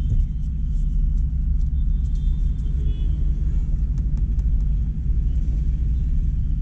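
Steady low engine and road rumble of a moving vehicle.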